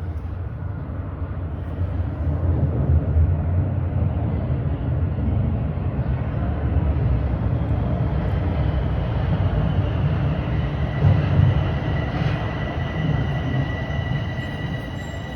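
TTC Line 4 subway train pulling into the station: a steady rumble of motors and wheels on the rails, joined about two-thirds of the way through by a high, steady squeal from the wheels.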